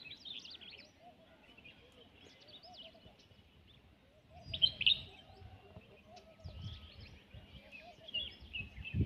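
Several wild birds chirping and calling, with a louder cluster of high chirps about halfway through and a lower call repeating steadily underneath. A couple of brief low rumbles come in midway.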